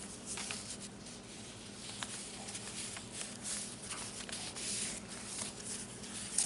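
Paper rustling and brushing as the pages and paper envelopes of a handmade junk journal are handled and turned, with a few light ticks.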